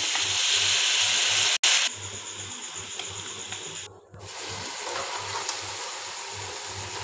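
Chopped vegetables (potato, carrot, cabbage, peppers) sizzling as they fry in a metal pan and are stirred with a spatula. The hiss is loudest for the first second and a half, then quieter, and it drops out for an instant twice, at about one and a half and four seconds.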